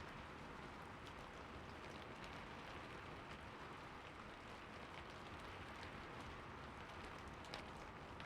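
Light rain falling: a faint, steady hiss with scattered ticks of single drops, one sharper drop near the end.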